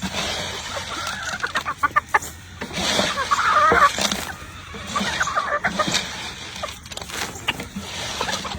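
Chickens clucking and calling in a series of short calls, with one longer, louder call about three seconds in.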